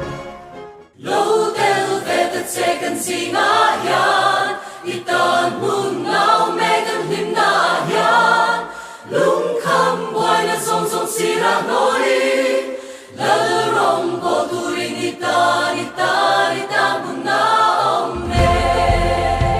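Music with a choir singing. Near the end it changes to a different piece with a strong low bass.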